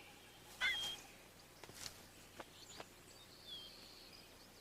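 Short, high bird call notes, each a quick rising-then-level whistle, a few seconds apart, the loudest about a second in, with a few faint ticks between them.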